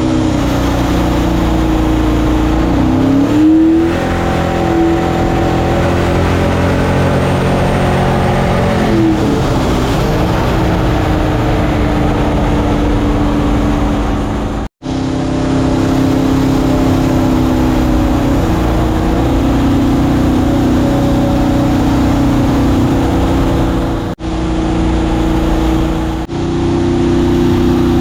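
Mini jet boat's engine running hard, its pitch rising and falling with the throttle, then holding steadier at speed. It breaks off abruptly three times, about 15, 24 and 26 seconds in.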